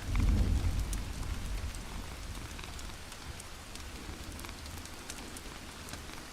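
Wood fire crackling, with scattered sharp pops over a steady hiss, and a low rumble swelling and fading in the first second or so.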